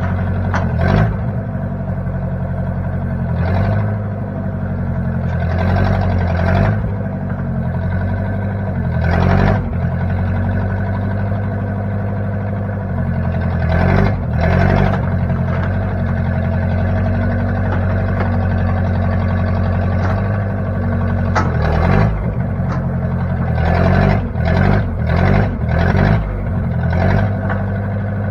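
1960 Case backhoe's engine running steadily, with short louder surges several times, bunched near the end.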